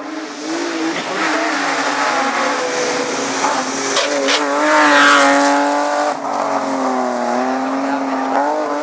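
Rally car engine revving hard, its pitch climbing and dropping with throttle and gear changes. It is loudest about five seconds in as the car comes closest.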